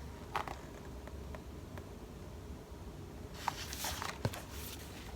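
Pages of a picture book being handled and turned: a light click early on, then a short burst of paper rustling with a couple of clicks a little past the middle, over a steady low hum.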